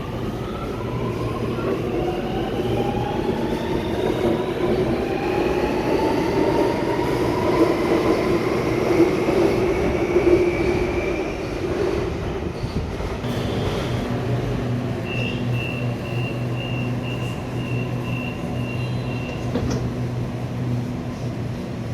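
Electric suburban train accelerating away, its traction motors whining in several tones that rise together in pitch over a low rumble of wheels on rail. Later a steady hum carries on, and a high beep repeats about twice a second for a few seconds.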